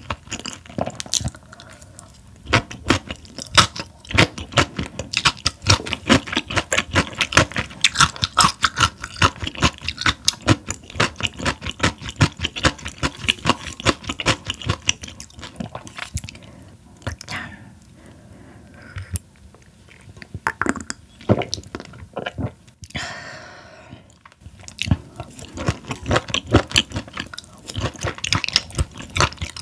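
Close-up chewing of raw Chinese herring sashimi and its seasoned vegetable salad: wet, crunchy bites in quick runs of clicks, with a few pauses and a brief different noise about 23 seconds in.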